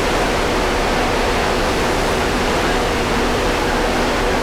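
Steady, loud rushing noise with a faint low hum underneath.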